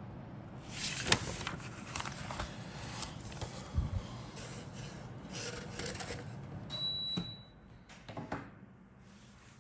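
Plastic model kit parts and packaging being handled, with irregular rustling and sharp clicks and knocks. A short steady high tone lasts about a second, about seven seconds in.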